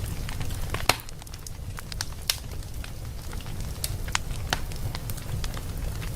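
Wood fire crackling, with irregular sharp pops over a steady low rumble; the loudest pop comes about a second in.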